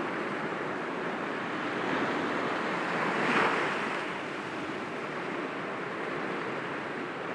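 Sea waves breaking gently against rocks: a continuous wash of surf, with one wave swelling and breaking about three seconds in before it settles back.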